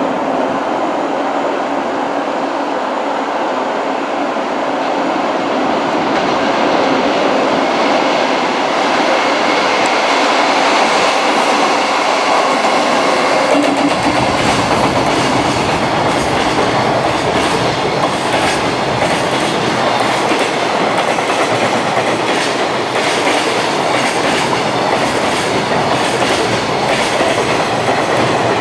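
JR Freight EF210 electric locomotive passing at speed, followed by its long string of container flatcars. The sound of the train grows fuller about halfway through as the locomotive goes by, then turns to a continuous clickety-clack of wagon wheels over rail joints.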